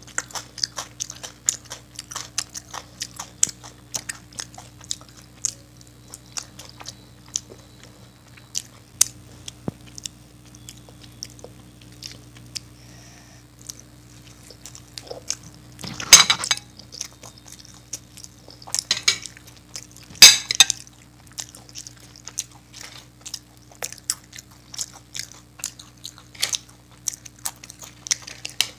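Close-up eating sounds: wet chewing with small mouth clicks throughout, broken by loud crunches of crisp fried papad being bitten and chewed, the loudest a little past halfway and again a few seconds later. A faint steady hum lies underneath.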